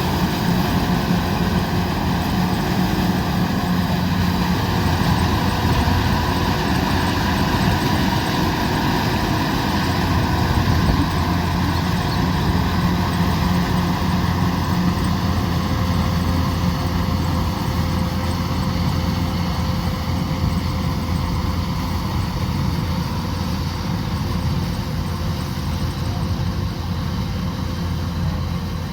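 Kubota combine harvester running steadily: a continuous engine drone with a few steady whining tones above it, easing slightly toward the end.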